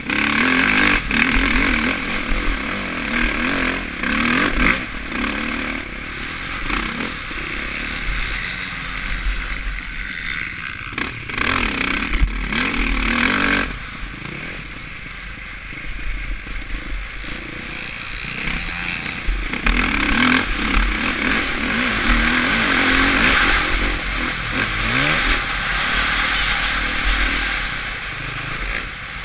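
Suzuki RM-Z450's single-cylinder four-stroke engine revving up and down as the bike is ridden around a motocross track, heard from a helmet camera with wind rush over the microphone.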